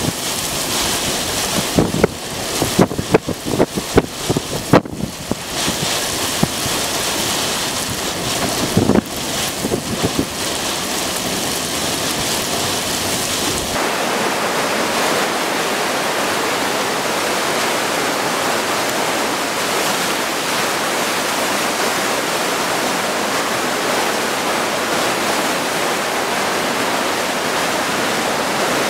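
Storm noise: gusty wind buffeting the microphone, with several sharp knocks in the first half. About halfway through it changes abruptly to a steady, even rush of wind and rain.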